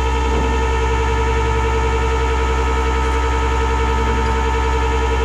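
Tow truck's hydraulic winch running, a steady whine over the low hum of the truck's engine as it pulls the Jeep up by its axle.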